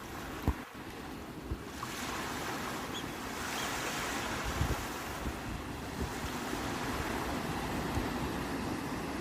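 Sea waves breaking and washing in as a steady surf, swelling about two seconds in, with a few low thumps early on.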